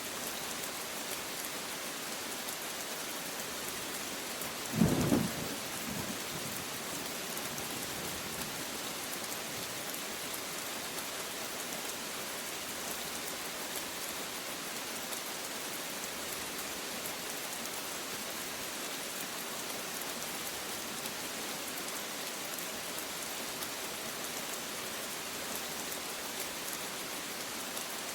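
Steady rain falling, with one short, loud clap of thunder about five seconds in and a faint low rumble trailing after it.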